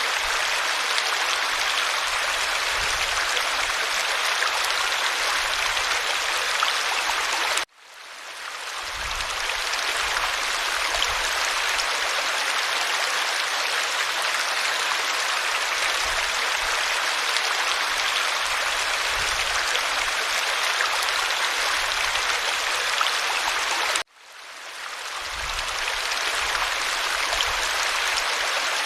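Steady rushing and babbling of flowing stream water. It cuts out suddenly twice, about a third of the way in and again near the end, and each time fades back in over a couple of seconds.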